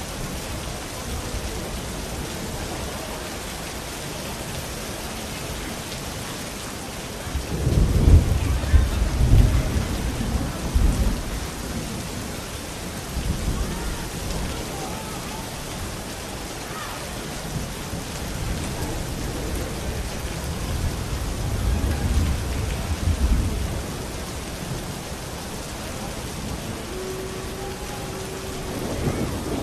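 Steady rain falling, with thunder rumbling twice: a loud roll about a quarter of the way in and a softer one about two-thirds of the way through.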